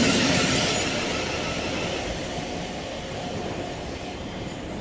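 Electric passenger train running along the tracks past the platform, a steady rush of noise that fades over the first three seconds.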